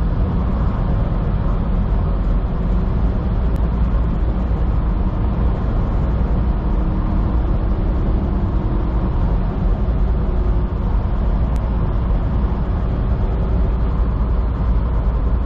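Steady drone of a semi truck's engine and tyre noise, heard from inside the cab while cruising on the highway. The level holds even, with no change.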